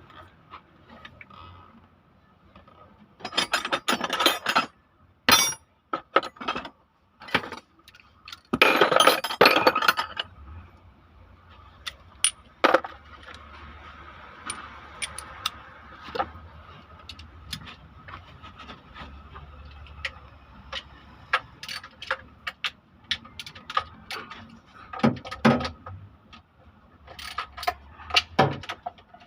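Metal tools and engine parts clinking and clattering against each other during engine disassembly: scattered clicks and knocks, with two longer bursts of loud metallic clatter early on.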